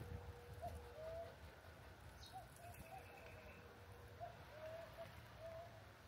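Faint bird calls: a scattered run of about eight short, soft notes, two of them a little longer, over a faint steady hum.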